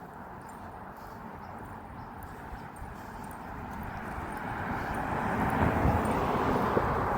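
Ocean surf rushing in: an even wash of noise that swells louder from about four seconds in and holds near the end.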